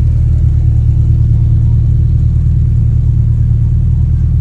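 Car engine running loud and close at a steady speed: a heavy, even low drone that holds one pitch throughout, with no revving.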